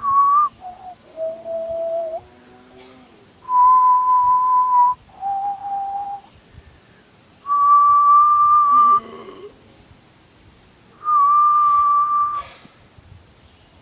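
A man whistling a slow tune in six long held notes, each a second or more, moving between a higher and a lower pitch with pauses between them. He calls it an Indian song.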